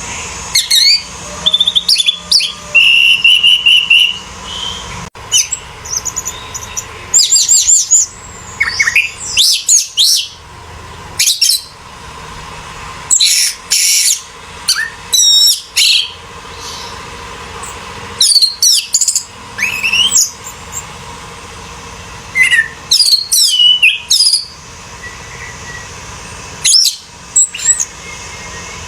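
Orange-headed thrush singing: loud, varied phrases of quick whistled sweeps and trills, in bursts of a second or so with short pauses between.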